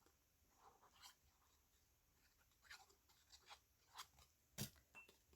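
Faint rustling and light taps of paper being handled and set on a journal page, the clearest tap about four and a half seconds in.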